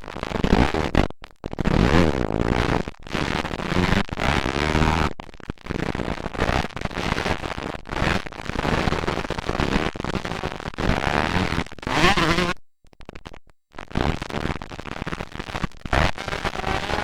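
Several motocross dirt bikes revving hard and racing past, the engine pitch rising and falling as the riders work the throttle, loud and harsh on the microphone. The sound cuts out suddenly twice, briefly near the start and for about a second later on.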